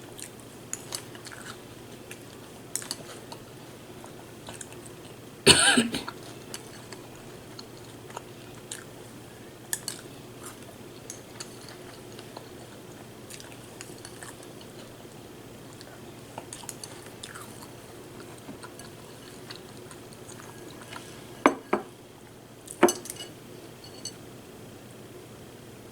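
Close-up chewing and crunching of birthday cake cereal, with small clicks throughout. There is a loud clink of a spoon or bowl about five seconds in and a few more clinks near the end.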